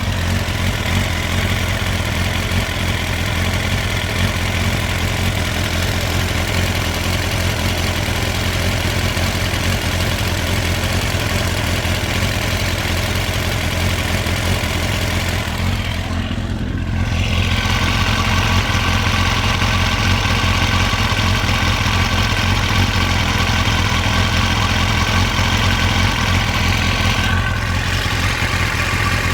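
Kawasaki ZX-9R's inline four-cylinder engine idling steadily at operating temperature, a little louder from just past halfway through.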